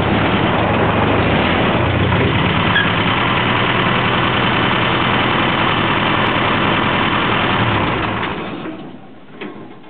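1947 Willys's four-cylinder engine running steadily, heard from inside the cab. It is shut off about eight seconds in and dies away over about a second, followed by a few light clicks.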